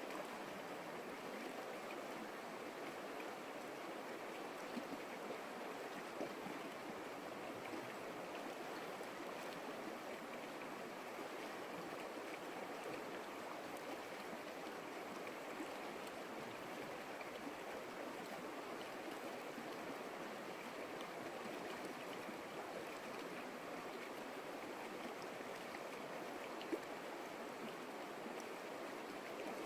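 Creek water flowing steadily, an even rushing and babbling, with a few brief louder splashes, one near the end.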